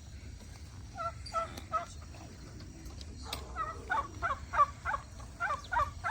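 Farm poultry calling in short, repeated, pitched calls: three about a second in, then a faster run of calls from about four seconds in.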